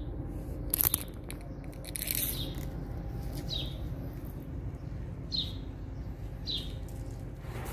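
A bird calling with short single chirps that drop in pitch, one every second or two, over a steady low rumble. A brief sharp click sounds about a second in.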